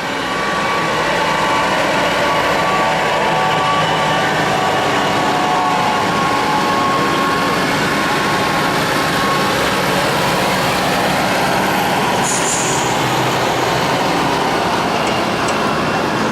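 Modified lawn tractor engine running loud and steady, holding an even pitch, with a brief high squeak about twelve seconds in.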